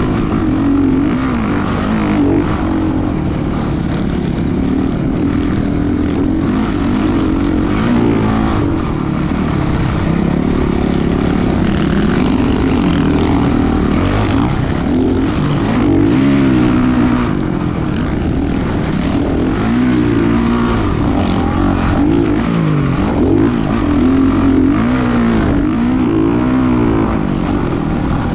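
Motocross dirt bike engine running hard, its pitch rising and falling over and over as it revs up and drops back.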